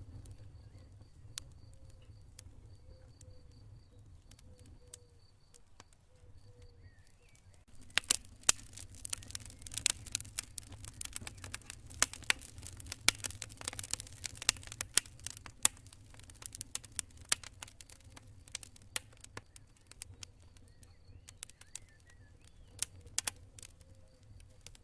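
Campfire crackling, with sharp pops at irregular intervals; about a third of the way in the fire flares into a dense run of crackling and hissing that thins out again later. In the first several seconds a cricket chirps steadily in a fast, even pulse.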